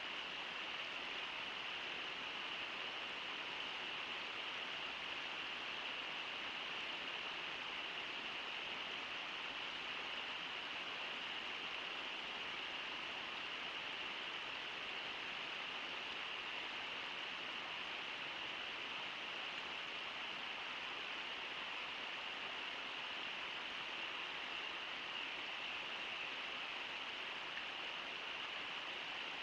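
Water of Brooks Falls and the Brooks River rushing in a steady, unbroken wash of noise.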